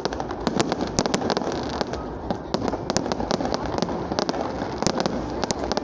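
Fireworks going off: many sharp bangs and pops at irregular intervals, several a second, over steady background noise.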